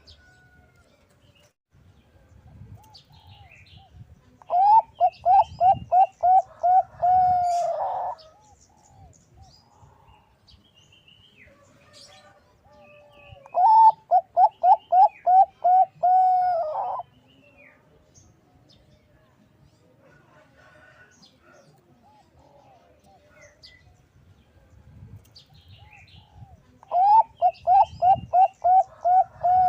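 Bangkok-strain perkutut (zebra dove) singing three bouts of its rapid staccato cooing, each a quick run of about eight to ten clipped notes that drops slightly after the first and ends in a longer drawn-out note.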